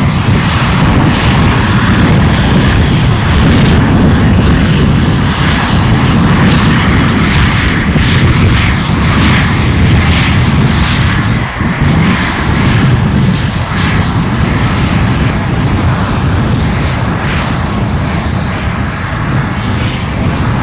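Aircraft engines running loud and steady, with a faint high whine over a deep rumble.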